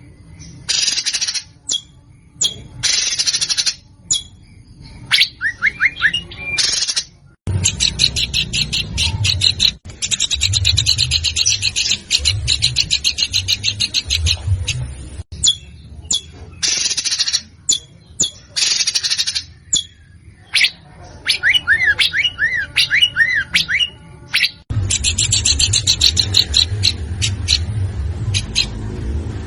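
Spliced recordings of songbirds: fast, dense series of harsh, sharp notes and trills, broken by abrupt cuts, with two runs of looping, rising-and-falling whistled notes. A low hum lies under some of the passages.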